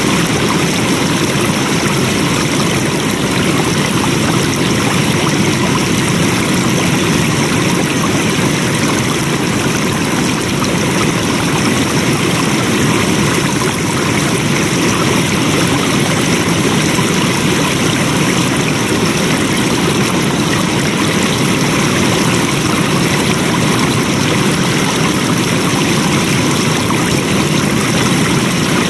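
Flowing water rushing steadily, like a stream over rocks, with no breaks.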